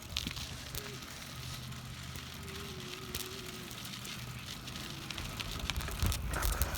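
Riding noise from a bicycle, recorded on a hand-held phone: a steady low rumble of tyres and wind on the microphone, with scattered clicks and rattles and a louder bump near the end.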